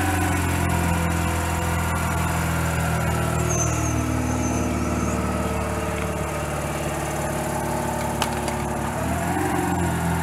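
2005 Mazda RX-8's two-rotor rotary engine idling steadily through an aftermarket performance exhaust, its pitch lifting slightly near the end.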